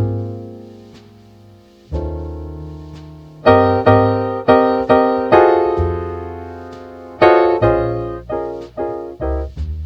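Lo-fi jazz piano music: chords struck and left to ring and die away, several in quick succession around the middle, over low bass notes.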